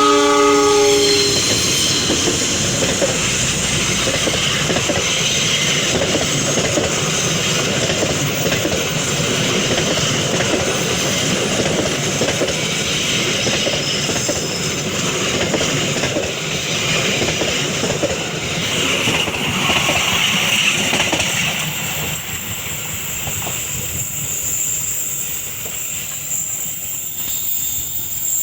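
A train horn sounds briefly at the start. Then a passing train's wheels run loudly over the rails, the noise easing off in the last several seconds.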